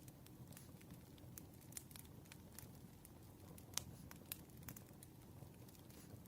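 Campfire crackling faintly: irregular small pops and snaps of burning wood over a soft, low rumble of flames, with one louder pop a little past the middle.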